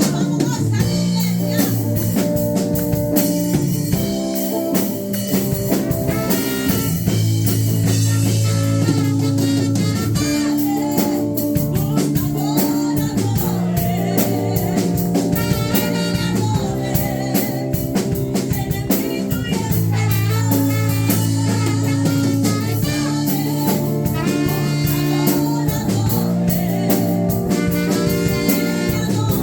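Worship band playing a praise song, with drum kit, guitar and held chords that change every couple of seconds.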